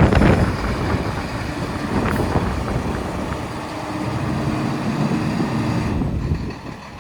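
Hino 268 box truck's diesel engine running, a steady mechanical noise that drops in level near the end.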